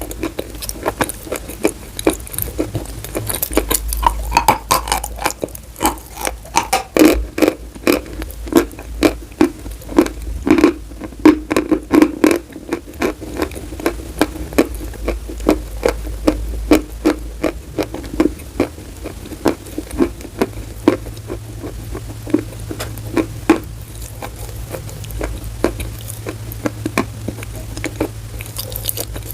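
Chalk being bitten and chewed close to the microphone: a dense, irregular run of sharp crunches and crackles. A low steady hum comes in about two-thirds of the way through.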